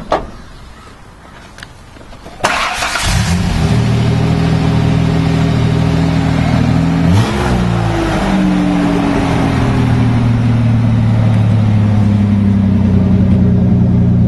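A motor vehicle engine starts about two and a half seconds in and runs steadily, with one short rev about seven seconds in.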